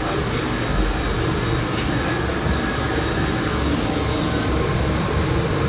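Steady low rumble and hiss of a moving vehicle heard from inside, running evenly without a break.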